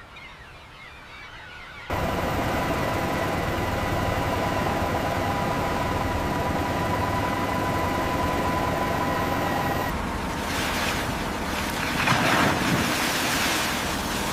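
Loud rushing water and sea noise starting suddenly about two seconds in, with a steady machinery hum and whine under it. About ten seconds in the hum stops and the water turns to surging waves that swell and ebb.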